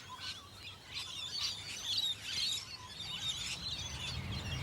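A flock of parrots calling: many short, high-pitched, overlapping squawks and chirps.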